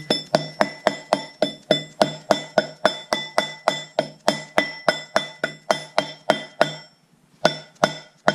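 Hammer tapping repeatedly on a metal part at the rear of a Mazda 13B rotary engine, working around it to seat it all the way. Quick, even metallic taps come about three a second, each ringing briefly, with a short pause about seven seconds in.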